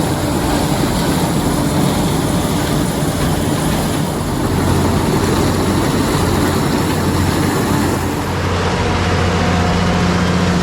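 Heavy farm machinery engine running steadily, from a combine or tractor at work. About eight seconds in the sound changes to a smoother, lower hum.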